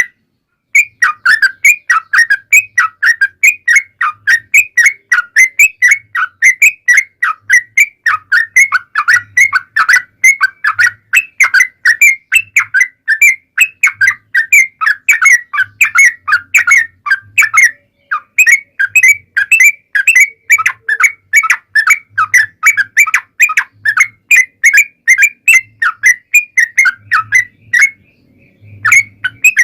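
Yellow-vented bulbul (trucukan) singing a long, unbroken run of quick, short chirping notes, about four or five a second. There is a brief pause a little past the middle and another near the end.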